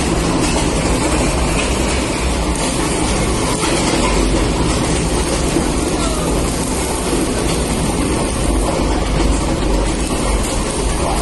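Plastic crusher running, a loud, steady mechanical rattle without a break.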